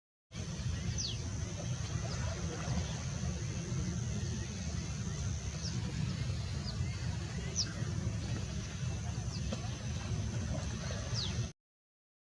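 Outdoor ambience: a steady low rumble under a thin, steady high whine, with about six brief, high falling chirps scattered through it. The sound starts just after the beginning and cuts off shortly before the end.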